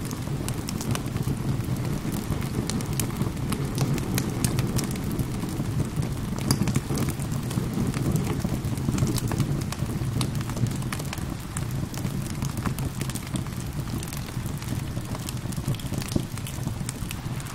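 Wood fire crackling in a fireplace, with many sharp pops and snaps over a steady low rumble, mixed with gentle rain.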